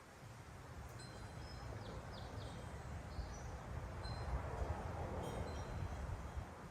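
Small birds chirping in short, high notes, with a few quick chirps about two seconds in, over a steady low outdoor rumble.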